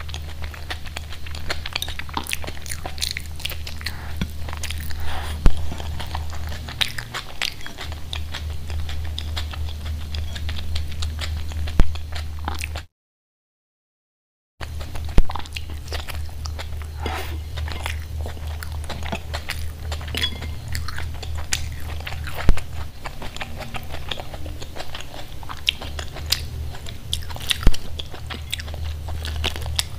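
Close-miked chewing, biting and wet mouth smacks of a person eating khichdi and side dishes by hand, with now and then a crunch and a few sharp loud clicks, over a steady low hum. The sound drops out entirely for about a second and a half near the middle.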